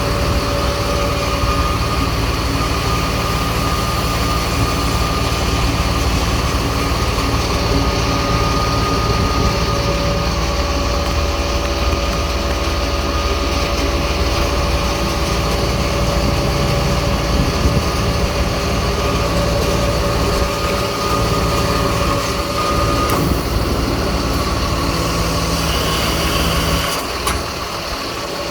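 A jet fuel truck's engine running steadily while it drives the fuel pump, with a steady whine over the low rumble. Near the end the rumble drops off and the overall level dips.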